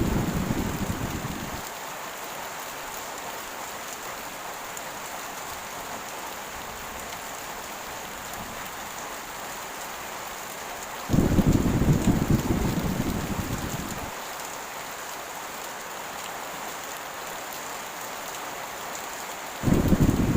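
Steady heavy rain hissing, broken by low thunder rumbles that come in suddenly: one dying away in the first couple of seconds, another about eleven seconds in that fades over some three seconds, and a third near the end.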